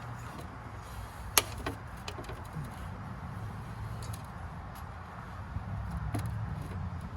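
A few sharp clicks and light knocks of hand work on small tractor parts, the loudest about a second and a half in, over a low steady hum.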